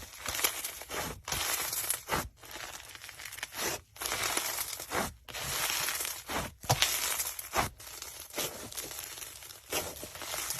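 Slime being squeezed and worked by hand: bursts of crackling, sticky noise full of small sharp clicks, separated by short breaks.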